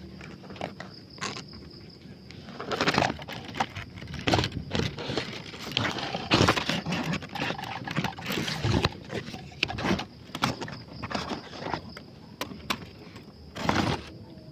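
Dry leaves and twigs rustling and snapping in irregular crackles as someone pushes through undergrowth, with a faint steady high tone near the start and end.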